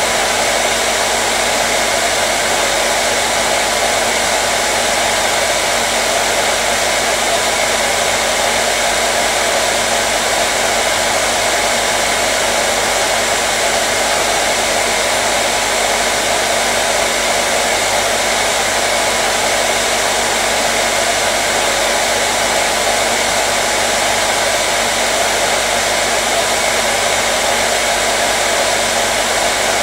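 Hair dryer running steadily, a constant rush of air with a faint steady hum underneath and no change in speed.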